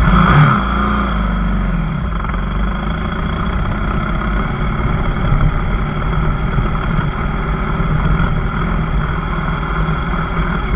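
Off-road motorcycle engine running steadily as the bike rides a rough grassy trail.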